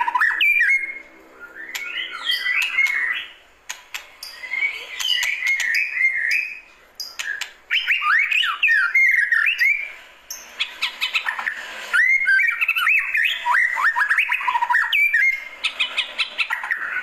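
White-rumped shama (murai batu) singing: phrases of rapid, varied whistled notes a second or two long, separated by short pauses, with sharp clicks mixed in.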